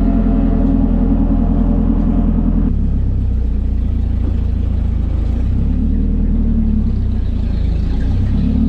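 Volvo 240 race car's engine running at steady revs, with an abrupt change in engine note about three seconds in.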